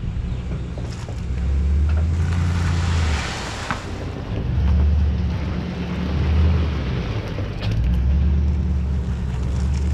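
A vehicle engine revved hard in repeated surges while under heavy load, straining to tow a truck chassis up a slope.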